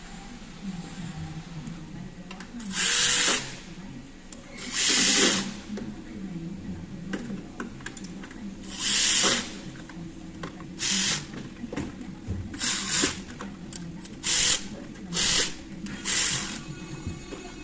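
A power tool run in short bursts, about eight of them, each lasting under a second, with a steady low hum between them.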